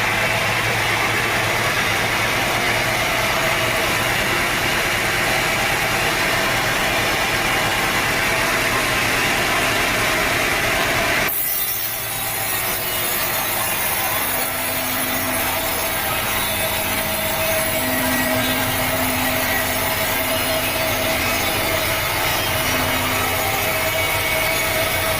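Sawmill saw running steadily through a teak log. About halfway through, the sound changes abruptly and becomes brighter and hissier.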